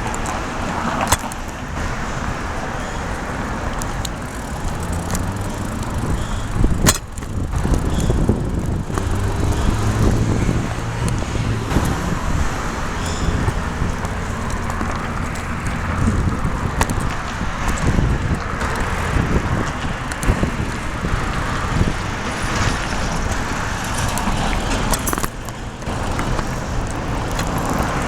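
City street traffic heard from a bicycle on the move: a steady rumble of passing cars, with a vehicle engine humming louder for a few seconds about a third of the way in. A few sharp clicks and knocks.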